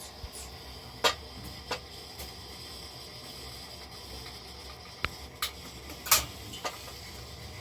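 Several short, sharp clicks and knocks scattered over a steady low hiss, the loudest about six seconds in.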